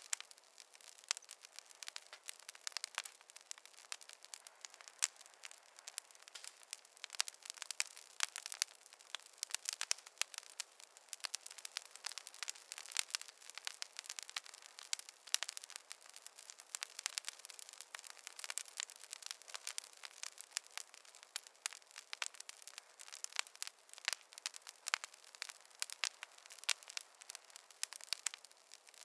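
Wood fire crackling, with many irregular sharp pops and snaps over a faint hiss.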